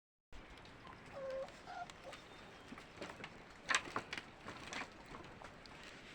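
Puppies: a short whimper and a higher squeak in the first two seconds, then a patter of scratchy taps and scuffles, loudest a little past halfway.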